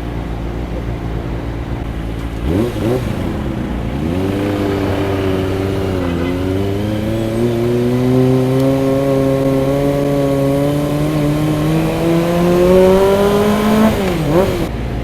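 Kawasaki ZX25R inline-four engine on the move: a short throttle blip about two and a half seconds in, then revs climbing under acceleration, a brief drop at a gearshift and a long steady rise in revs, before the throttle closes and the revs fall with a quick blip near the end.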